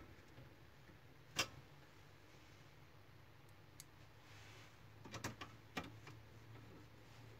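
Scattered sharp clicks and light taps of small printer parts being handled, the loudest about a second and a half in and a quick cluster around five seconds, over a faint steady low hum.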